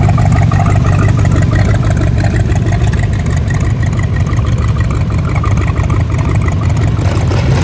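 A car engine idling with a steady, low rumble.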